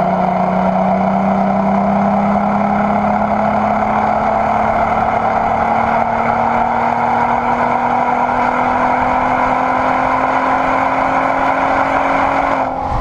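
VW Sharan's swapped-in R32 VR6 engine pulling under acceleration through an aftermarket exhaust with its flap open, its note rising slowly and steadily. The engine note cuts off suddenly near the end.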